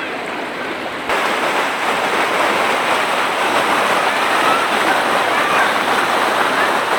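Waterfall, the steady rushing noise of falling water, which jumps louder about a second in.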